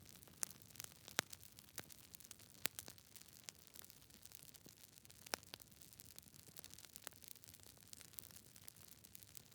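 Burning campfire wood crackling: irregular sharp pops and snaps over a faint hiss, with a few louder pops among many small ones.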